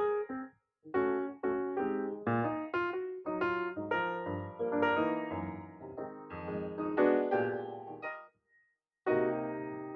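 Background piano music: a melody of struck notes in phrases, with a brief pause about eight seconds in.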